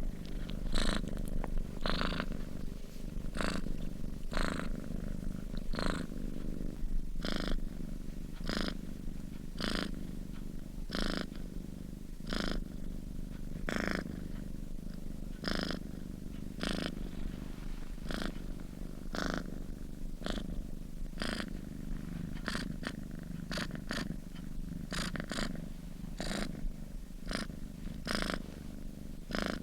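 Domestic cat purring steadily in its sleep: a continuous low rumble, with a breathy rush on each breath about every second and a half.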